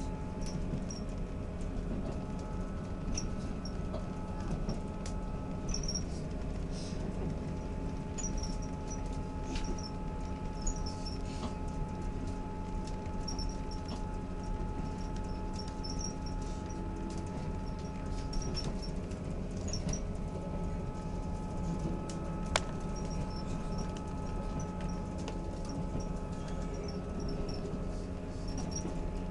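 Interior of a diesel train running at speed: a steady rumble from the wheels and carriage, with a steady whine from the drive and faint high squeaks and rattles from the carriage throughout. There are two sharp clicks, near the middle and about three-quarters of the way through.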